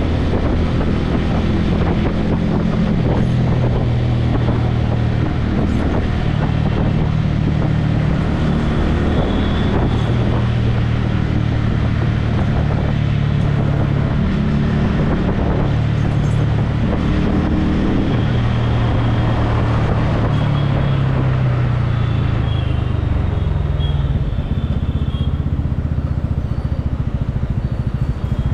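Motorcycle engine running while riding, its pitch rising and falling several times with throttle and gear changes, over a rush of wind on the helmet-mounted microphone.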